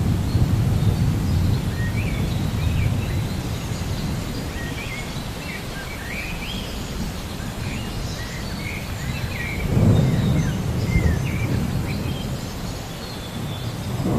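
Low rumble of distant thunder that swells about ten seconds in, with birds chirping over it.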